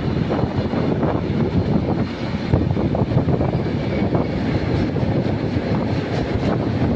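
Indian Railways train running at speed: a steady low rumble with irregular rattling and clatter throughout.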